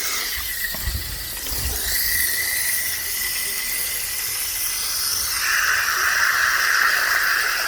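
Water running steadily into a container as it is filled.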